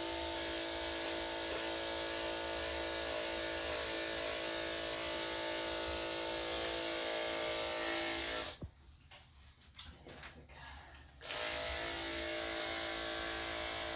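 Electric dog grooming clippers with a #7 blade running with a steady buzz, cut off suddenly a little past halfway and switched back on about two and a half seconds later.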